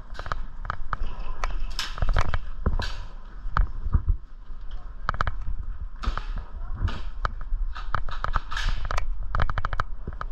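Airsoft guns firing: sharp cracks and clicks, some single and some in quick rapid bursts.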